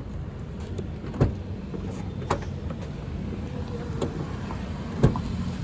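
Toyota Innova Crysta's 2TR-FE four-cylinder petrol engine running steadily with a low hum, with three short sharp clicks about a second in, a little after two seconds and near the end, the last the loudest.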